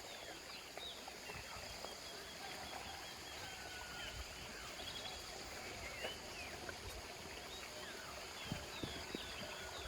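Outdoor nature ambience: many birds chirping and calling in short rising and falling notes, over a steady high-pitched insect drone.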